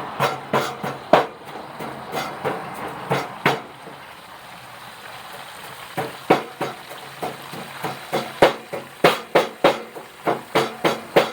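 Pestle pounding papaya salad ingredients in a mortar: repeated sharp thuds, a few at the start, a brief lull, then steady strikes about three a second.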